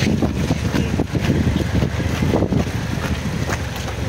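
Police motorcycle engine running low and steady while rolling at walking pace.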